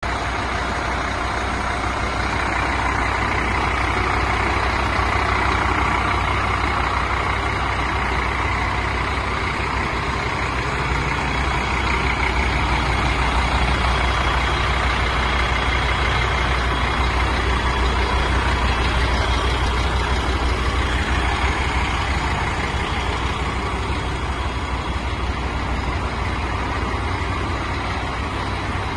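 Scania P310 truck's five-cylinder diesel engine idling steadily, with a deep low rumble.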